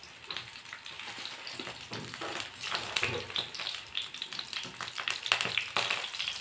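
Slices of nendran banana sizzling in hot ghee in a frying pan as more slices are dropped in, a steady sizzle full of small crackles that grows a little louder as the pan fills.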